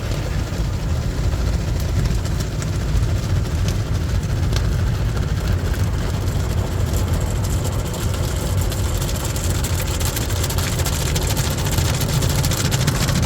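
Ryko SoftGloss XS automatic car wash running steadily through its wash cycle: a low rumble of machinery, with a hiss of spray that grows stronger about halfway through.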